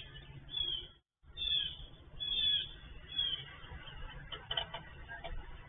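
Birds chirping: a series of short, falling high chirps about once a second, heard thinly through a security camera's microphone.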